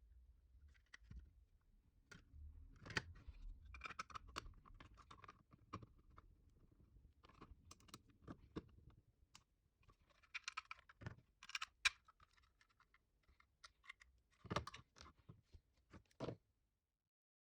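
Small plastic parts being handled and fitted together: irregular clicks, taps and scrapes as a small circuit board is put into a 3D-printed plastic housing. The sharpest clicks come about twelve and fourteen and a half seconds in.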